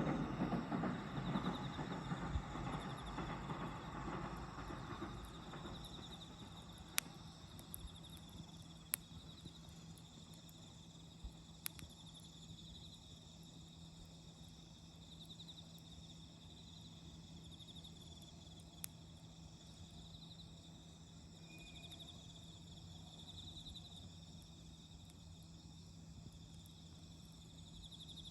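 Faint autumn crickets trilling steadily, with a few sharp single pops from a crackling campfire. A louder rushing noise fades away over the first few seconds.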